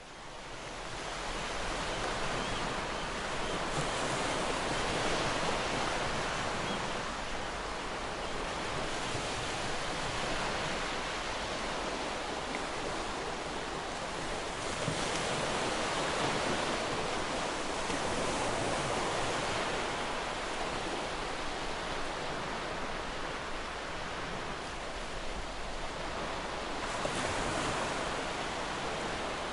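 Ocean surf breaking on a shore: a continuous wash of waves that swells and eases every few seconds. It fades in over the first couple of seconds.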